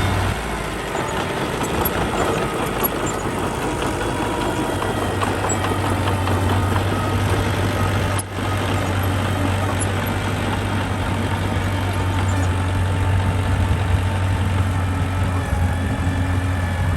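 Engine of a heavy earthmoving machine running steadily with a low drone, broken once briefly about eight seconds in.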